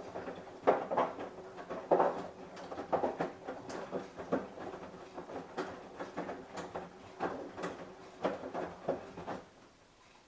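Samsung Eco Bubble washing machine drum turning in a wash cycle: laundry and water tumbling with irregular thumps and sloshes over a faint steady motor hum. The drum stops near the end.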